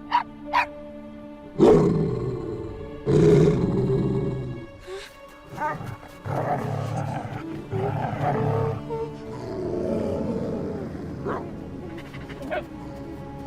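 Cartoon wolves growling and snarling several times, low and rough, over a tense music score.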